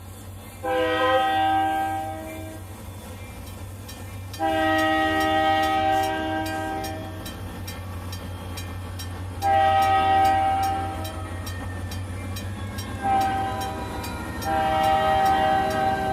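Sound-equipped HO scale model locomotive blowing a multi-chime horn in the grade-crossing pattern, long, long, short, long, with a longer blast before it, over a steady low engine drone.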